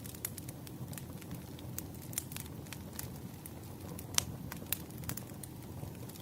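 Campfire crackling: irregular sharp pops and snaps over a low steady rush of burning wood, with one louder pop about four seconds in.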